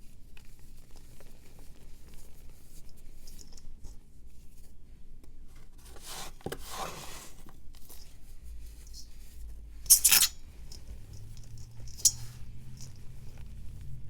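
Block of reformed powder being crumbled and shaved by hand: small scratches and crumbling, then a longer crumbling crunch about six seconds in. A sharp snap about ten seconds in is the loudest sound, with a smaller crack about two seconds later.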